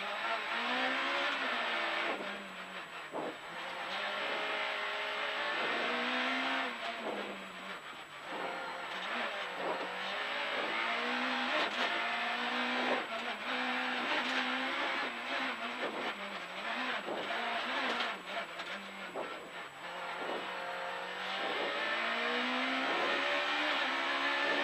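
Rally car engine at full throttle, heard from inside the cabin. The revs climb hard and drop sharply again and again as it shifts gear and lifts for corners, then hold high near the end.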